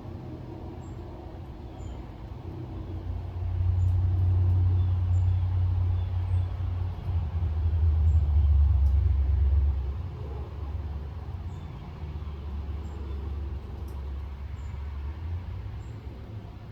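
Low engine rumble of a motor vehicle, swelling about four seconds in, dropping in pitch, then easing off about ten seconds in. Faint short high chirps repeat throughout.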